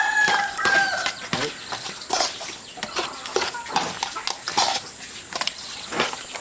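Chickens clucking, with a short call about a second in, among a run of short sharp clicks and taps. A steady high-pitched hum sits under it all.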